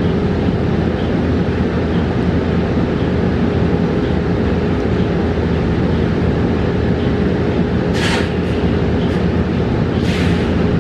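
Cabin noise of a 2022 New Flyer XE40 battery-electric bus under way: steady road and running noise with a constant hum, and two short hisses about eight and ten seconds in.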